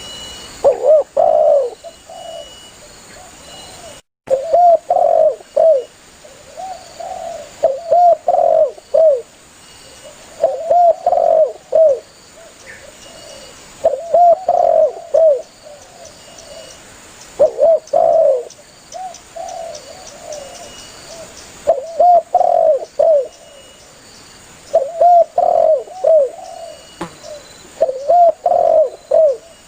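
Spotted dove (tekukur) cooing: phrases of several rounded coo notes, repeated about every three to four seconds. The sound drops out for a moment about four seconds in.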